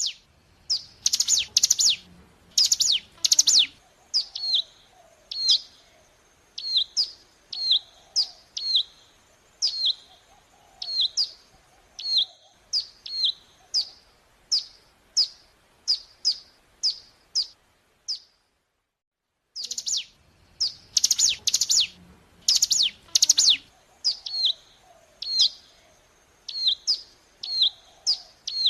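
Ciblek gunung song: a quick burst of sharp chirps, then a regular series of short, downward-sliding notes about one a second. About 18 s in it cuts out for a second or so, then the same burst-and-series pattern starts again.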